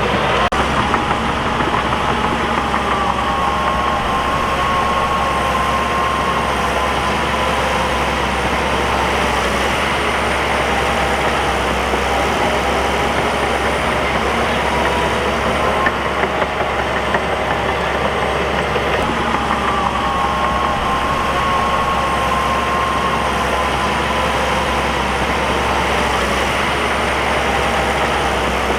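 Bulldozer diesel engine running steadily under work, its note rising and then sagging slowly twice, with a constant mechanical clatter underneath.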